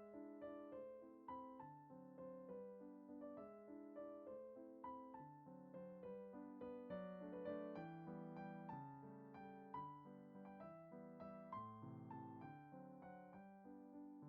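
Quiet background music: a soft piano melody with chords, notes struck and decaying one after another.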